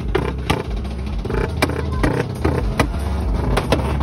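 Tuned street motorcycle engine revving loudly, with music playing under it.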